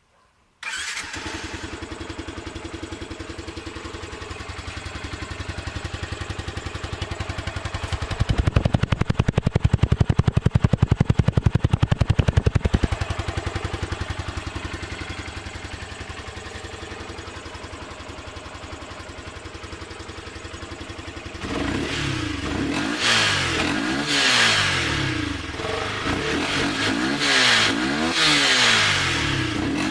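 Yamaha R15 V2's single-cylinder engine, breathing through its stock exhaust modified for a stronger sound, comes in suddenly about a second in and runs steadily, growing louder for a few seconds in the middle. In the last third it is revved repeatedly, the pitch rising and falling with each blip of the throttle.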